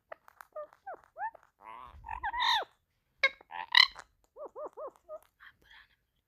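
Pet green parrot chirping and squawking: a string of short sliding chirps, two louder harsh squawks in the middle, then a quick run of three alike chirps and a few soft notes near the end.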